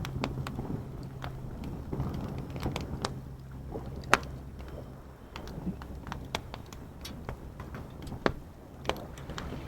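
Wood campfire crackling with scattered sharp pops, the loudest about four seconds in, over a low wash of waves that eases off about halfway through.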